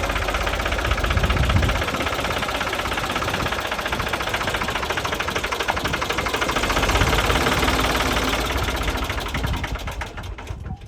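A 1968 Ford Force 3000 tractor's three-cylinder diesel engine running at a steady speed; the sound falls away near the end.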